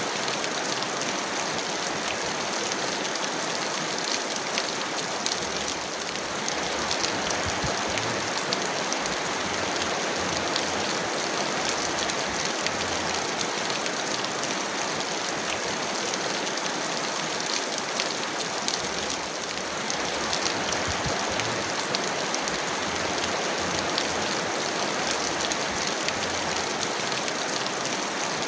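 Heavy rain falling steadily, a dense, even patter of many drops with no thunder.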